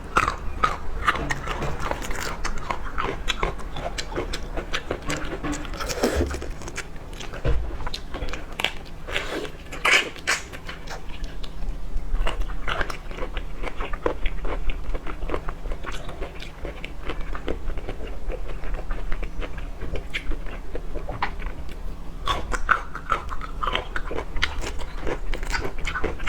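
Close-miked eating sounds: raw prawns and shrimp being bitten and chewed, with rapid wet smacking and crunching clicks throughout.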